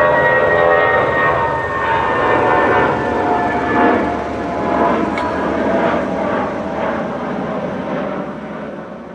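Jet airliner engines passing by: a loud rumble with a high whine whose pitch slowly falls, fading toward the end.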